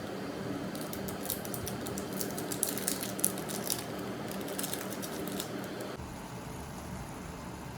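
Short clicks and rustles of small objects being handled, over a steady hum. The background changes abruptly about six seconds in.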